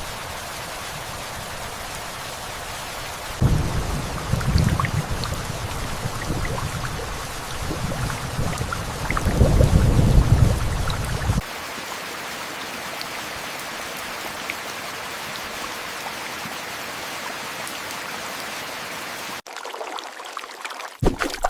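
Steady heavy rain with a long roll of thunder, starting about three seconds in and loudest near ten seconds. The rain cuts off abruptly near the end.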